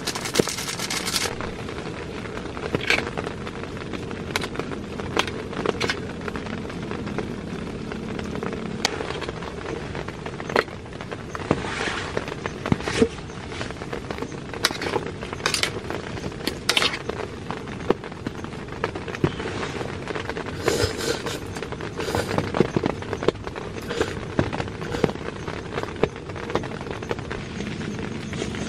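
Heavy rain pattering steadily on the tent, with scattered sharp clicks and scrapes of a metal utensil against a camping pan. A crisp crinkle of a seasoning sachet being shaken in the first second.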